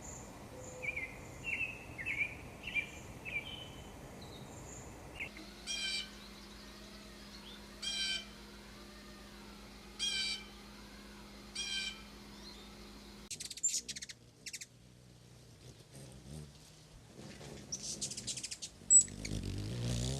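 Wild birds calling: quick chirps at first, then a bird giving a short call four times, about two seconds apart.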